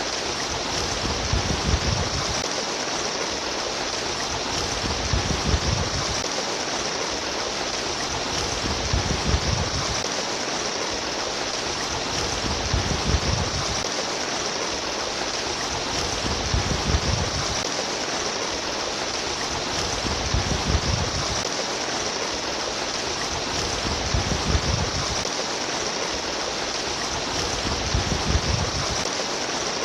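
Water running and splashing in a stream: a steady rush with a bright hiss, and a low surge swelling about every four seconds.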